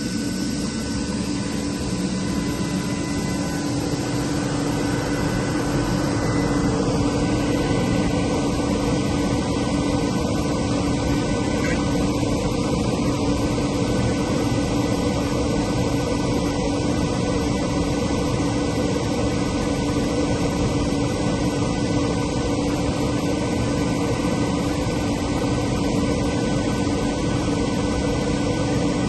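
Atlas Copco GA11 VSD FF oil-injected rotary screw air compressor running with a steady hum and hiss. A higher tone glides down in pitch about five seconds in, as the variable-speed drive changes motor speed, and the running gets slightly louder.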